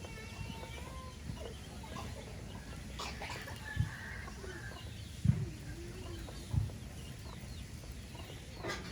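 Chickens clucking softly, with three dull low thumps near the middle, the loudest about five seconds in.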